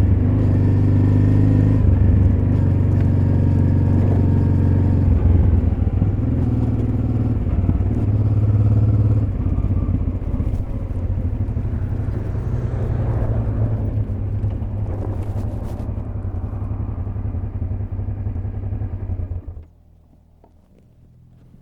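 Honda Transalp XL600V's V-twin engine running, its pitch shifting through the first half, then running lower and steadier before cutting off suddenly near the end. A few faint clicks follow.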